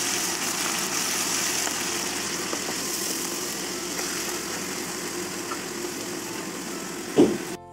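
Ground onion paste sizzling steadily in hot oil in a kadai as it is stirred with a wooden spoon. One loud knock near the end.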